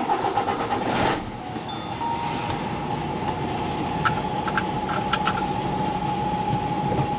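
HGV lorry's diesel engine running under the cab while the lorry reverses, with a steady high-pitched tone over it from about two seconds in and a few light clicks between four and five seconds in.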